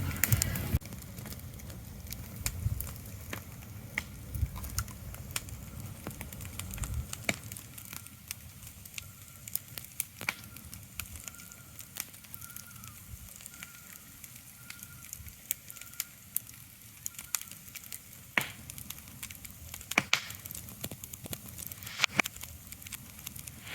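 Ambient sleep soundscape: a soft steady hiss with irregular sharp crackles and pops scattered through it, and a low rumble underneath that fades out about a third of the way in.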